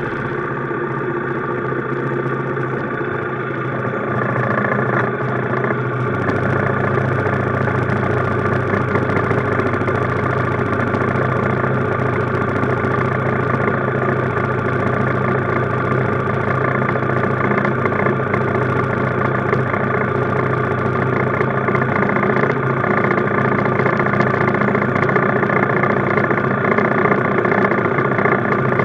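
Minibike's small engine running steadily, a little louder and deeper from about four to six seconds in.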